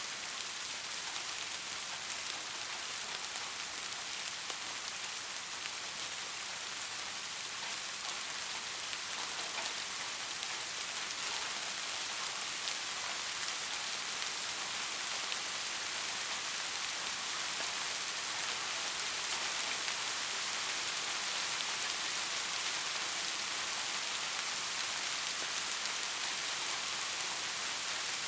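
Steady soft rain falling and pattering on surfaces, an even hiss with faint scattered drop ticks.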